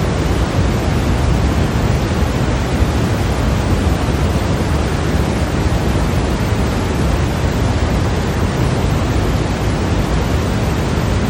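Steady, unchanging white-noise track: a constant rushing hiss, fuller in the low end than the high.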